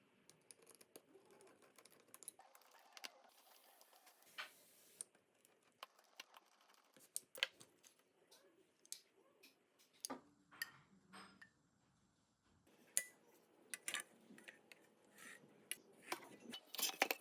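Scattered light metallic clicks and taps of small metal parts and tools being handled, irregular and unhurried, the loudest few near the end.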